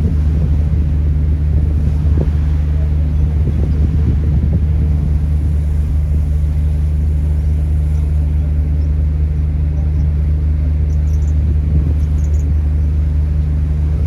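Ferry's engine droning steadily with a low hum, heard on board. A few faint high chirps come near the end.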